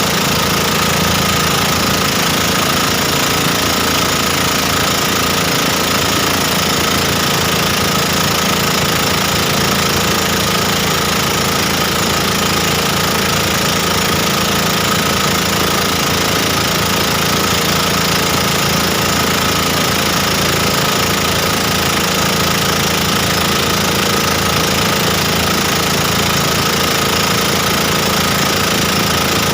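Boat engine running steadily at constant speed, loud and unchanging.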